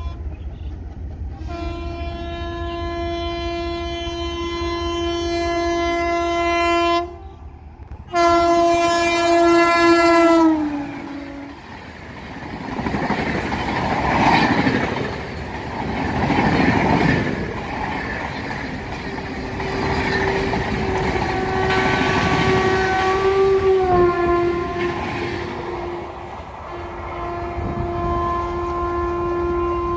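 WAP-7 electric locomotive sounding two long horn blasts, the second falling in pitch as it passes at speed, followed by the rush and clickety-clack of an express train's coaches running through the station. In the second half another long horn sounds, with a brief dip in pitch partway through.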